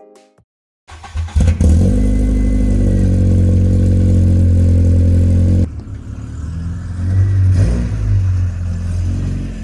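Car engine starting, its revs rising briefly and then settling into a steady run. A little past halfway it drops in level and changes character.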